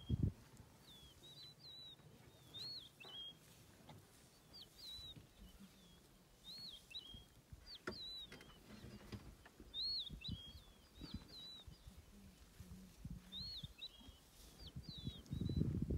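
A bird repeating short, high, curved chirps, a note or two every second or so, over faint scattered low thumps. A low rumble swells near the end.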